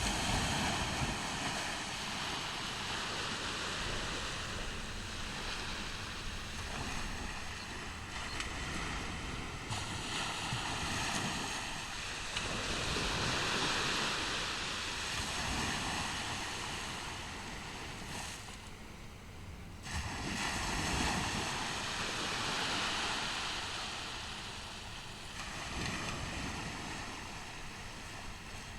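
Caribbean surf breaking and washing up on a beach, rising and falling in swells, with louder surges about every ten seconds.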